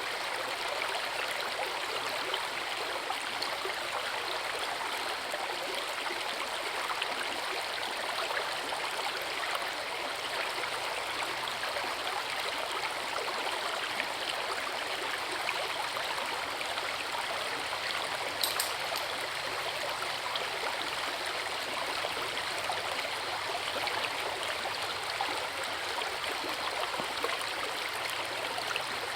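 Forest river and waterfall: water rushing steadily, with one brief high click about two-thirds of the way through.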